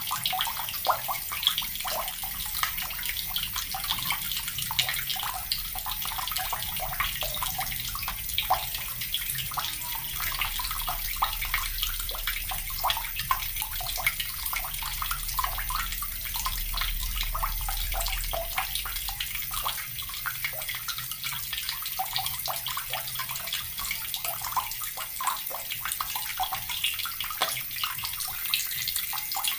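Water from a tap running steadily into a bucket, a continuous splashing stream with constant small spatters.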